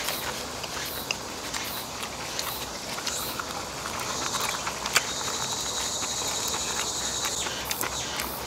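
Close-up chewing of napa cabbage kimchi wrapped in roasted laver: wet, crunchy mouth sounds with many small clicks. About three seconds in, a steady high insect buzz starts and stops about a second before the end.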